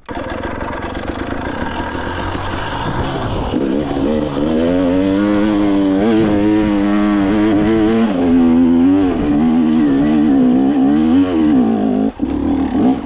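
Enduro dirt bike engine being ridden hard off-road, the revs rising and falling again and again as the throttle is worked. The engine cuts back briefly near the end.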